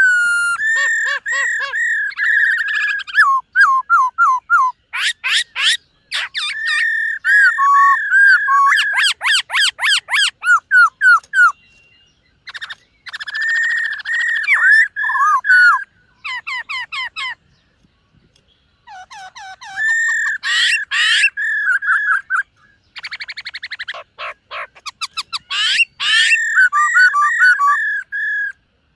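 Black-throated laughingthrush singing: loud, clear whistled phrases with gliding notes and fast rattling trills. The phrases come in bursts, broken by short pauses.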